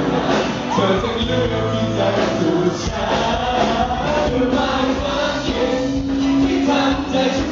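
Loud live pop music with voices singing held notes over a steady beat.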